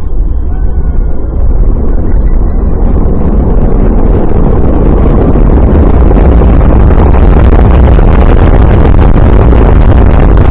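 Rocket engine roar at launch: a deep, crackling rumble that builds over the first few seconds and then holds steady and very loud.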